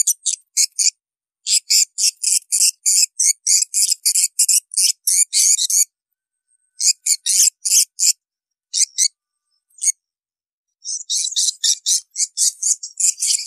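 Swiftlet calls: fast runs of short, high chirps, about five a second, broken by two pauses about six and ten seconds in. This is a swiftlet lure call of the kind played to draw the birds into a swiftlet house.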